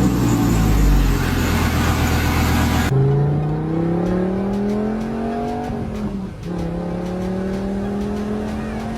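Dodge Viper's V10 through a newly fitted aftermarket exhaust system. It revs loud and close at first. After a sudden cut it accelerates with a rising pitch, drops at a gear change about six seconds in, and pulls again.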